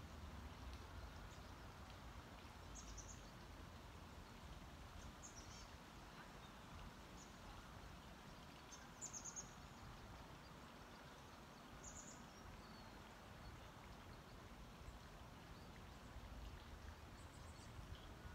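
Near silence: faint outdoor ambience with a low rumble, and a few short, high bird chirps scattered through, the loudest about nine and twelve seconds in.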